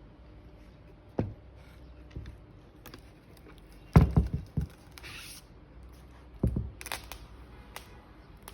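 Handling noises: a few dull knocks, the loudest a quick cluster of them about four seconds in, with brief rustling just after and again near the end.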